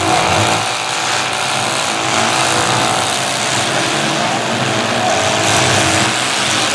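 Engines of several demolition derby cars running and revving together in a loud, steady din.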